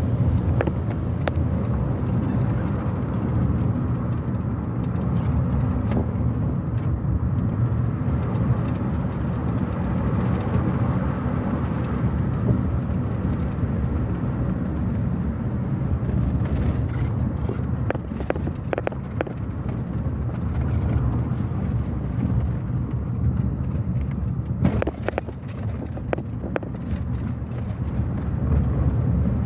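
A car driving along at a steady pace, its engine and tyre noise making a continuous low rumble. A handful of brief knocks and clicks sound over it, a cluster of them about two-thirds of the way through.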